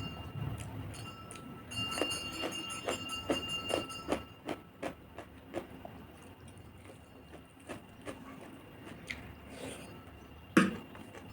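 Close-miked eating sounds: a run of short wet clicks of chewing and mouthfuls of fish curry and rice, thickest in the first half, with one much louder knock near the end.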